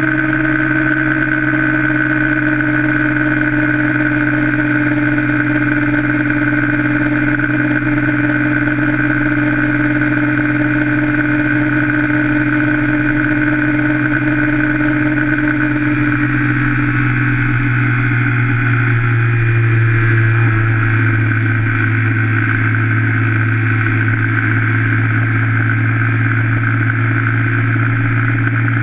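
Yamaha Factor 125 single-cylinder four-stroke engine running at steady high revs under way, held near top speed. Its note drops slightly about two-thirds of the way through, then holds steady again.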